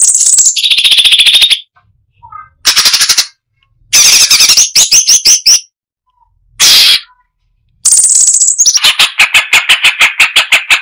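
Cucak cungkok singing loudly in separate bursts with short pauses between them. It mixes sweeping phrases with fast rattling runs of sharp repeated notes, and a long rapid run starts about 8 seconds in.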